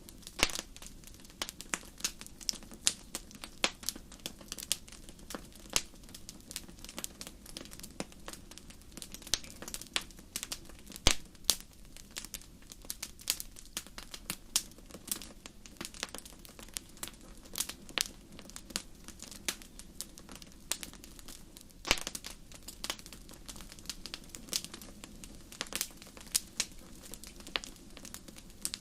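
Fire crackling in a fireplace: an irregular, steady run of sharp pops and snaps over a soft low rush of burning, with one louder pop about eleven seconds in.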